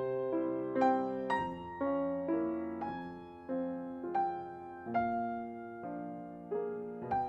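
Solo piano playing a slow, gentle instrumental melody, notes struck one after another about every half second and left to ring out.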